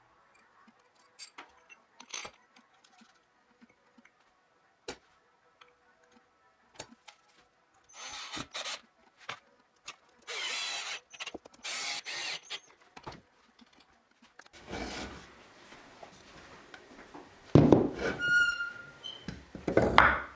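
Workshop sounds of hand work on wood and metal parts. Scattered light taps and clicks give way to several short bursts of scraping or rubbing, then louder knocks and scraping near the end, with a brief squeal.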